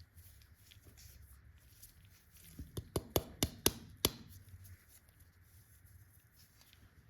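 Candy or its packaging being handled: a quick run of six or seven sharp taps or knocks on a hard surface, packed into about a second and a half in the middle, with soft handling noise around them.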